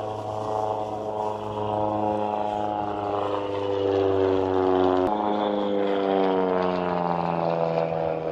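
Propeller engine of an aerobatic stunt plane droning in flight, its pitch sliding steadily lower. About five seconds in the pitch steps back up abruptly, then keeps falling.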